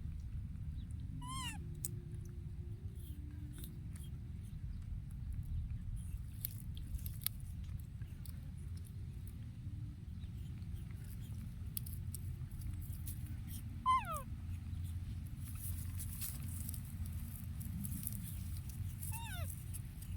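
Three short squeaky calls from a young animal, each dropping in pitch: one about a second in, a louder one about two-thirds of the way through, and one near the end, over a steady low rumble.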